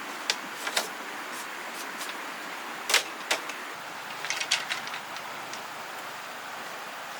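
Irregular sharp knocks and clicks over a steady background hiss, the loudest about three seconds in and a quick run of taps around the middle.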